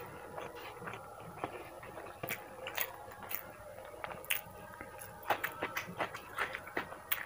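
A person chewing food, a string of small wet clicks and crunches that grows busier in the last couple of seconds.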